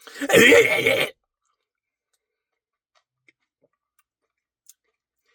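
A loud, wet mouth sound about a second long at the start, exaggerated eating noise, followed by a few faint clicks.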